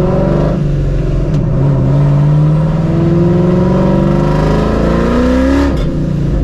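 Supercharged Ford 4.6-litre 2V V8 of a New Edge Mustang GT accelerating with its exhaust cutouts open, the exhaust dumping right off the X-pipe. The engine note climbs steadily through a gear, with upshifts about half a second in and again near the end.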